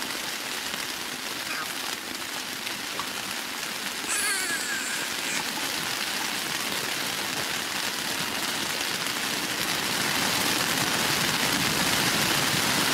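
Rain falling on the fabric of a pop-up tent, heard from inside: a steady hiss that grows louder about ten seconds in. A brief high sound about four seconds in.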